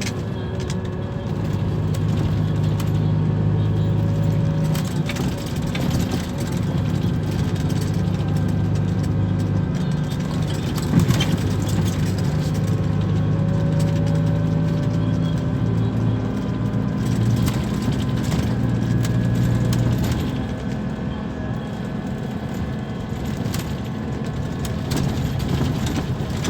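Scania K340 bus engine running under way, a steady low drone whose pitch shifts in steps several times, with one short knock about eleven seconds in.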